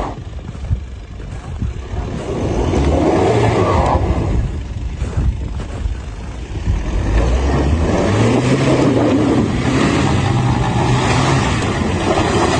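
Car engine running and accelerating, its pitch rising and falling a few times, over steady road noise.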